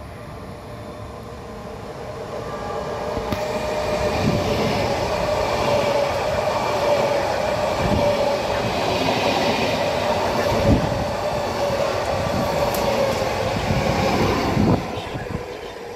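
ED160 (PESA Dart) electric multiple unit running into the station past the platform. The wheels knock several times over the rail joints, and a steady tone slides slightly lower. The sound builds over the first few seconds and falls away sharply near the end.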